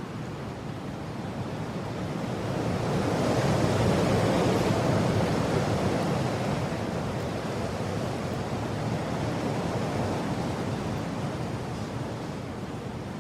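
Strong mountain wind blowing in a rushing gust that builds to its loudest about three to four seconds in, then slowly eases off.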